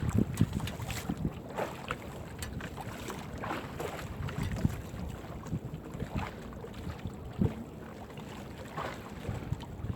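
Irregular knocks, scrapes and rustles aboard a small fishing boat as a crab gillnet is hauled in, with wind on the microphone and water sloshing. No engine is running.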